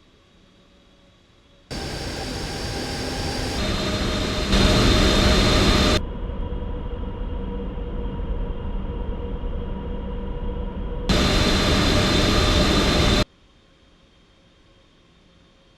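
Jet airliner engines running loud, a rumble with steady high whines over it, in several spliced stretches that change and cut off abruptly. Faint hiss for the first couple of seconds and the last few.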